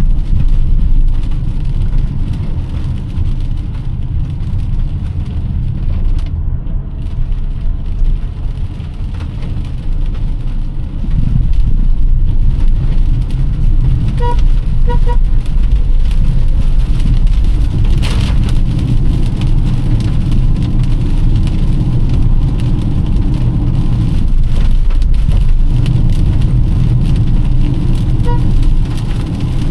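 Car driving on wet roads in heavy rain: a steady low rumble of engine and tyre noise with the hiss of rain, louder from about eleven seconds in. A few short high beeps sound around the middle and again near the end.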